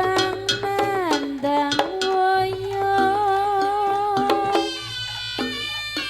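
Live Javanese jaranan campursari music: a held melody with vibrato that slides down in pitch about a second in, over hand-drum strokes. Near the end the melody drops away and short plucked or struck notes with drum hits carry on.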